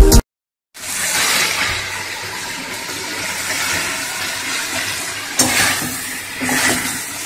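Cauliflower and potato curry frying in a kadai, a steady sizzle, with a metal spatula stirring and scraping against the pan from about five seconds in. Intro music cuts off at the very start.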